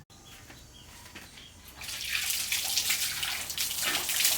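A few faint chirps, then, about two seconds in, water starts running steadily and loudly.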